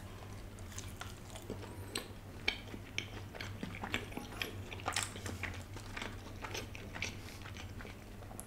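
Close-miked chewing of a bite of baked pizza pocket with Samyang chili sauce: a steady run of small wet clicks and light crunches. A low steady hum runs underneath.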